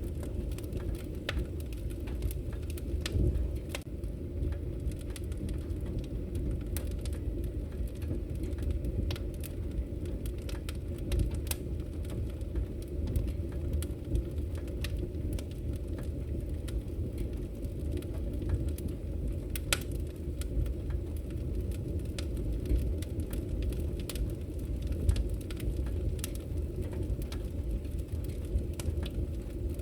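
Wood fire burning in a fireplace: a steady low rumble of the flames with scattered crackles and pops, a few sharper pops standing out.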